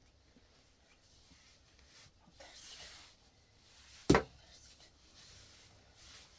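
A brief scraping rub, then a single sharp knock about four seconds in.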